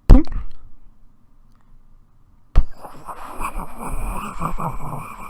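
Imitation of a lump of pure potassium dropped into an aquarium tank. A sharp hit comes right at the start and dies away; about two and a half seconds later a sudden crackling, fizzing noise sets in and keeps going.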